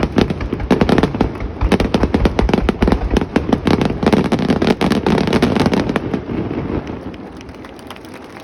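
Aerial fireworks going off in a rapid, dense barrage of bangs and crackles, which thins out and fades about six seconds in.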